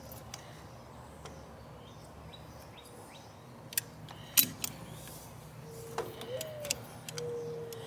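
A few light clicks and taps, with faint bird chirps in the background.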